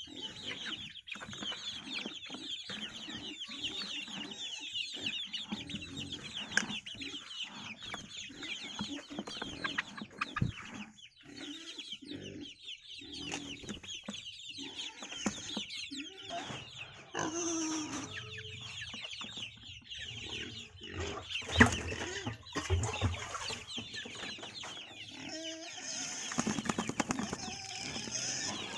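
Flock of chickens clucking and many small chicks peeping at feeding, with scattered knocks and one sharp click about 22 seconds in.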